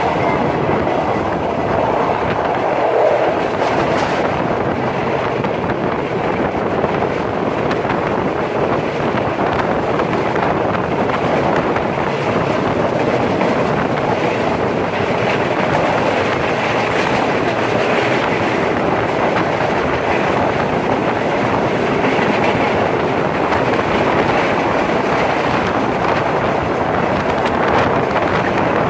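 Udaya Devi express train running along the line: a steady noise of the wheels on the track that holds even throughout.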